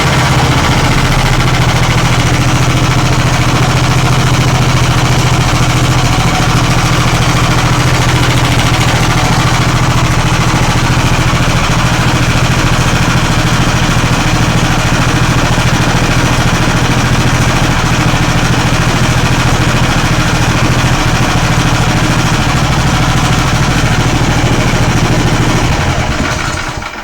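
Magnum BS190F 15 hp single-cylinder small engine, a Lifan 190F copy, running steadily on its first break-in run. The engine is shut off near the end and its sound dies away.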